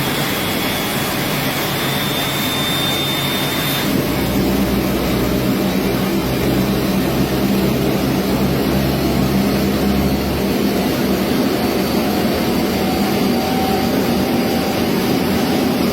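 Aircraft engine running steadily: a dense, continuous engine noise with steady tones in it. About four seconds in, a high thin tone stops and the low rumble grows stronger and stays so.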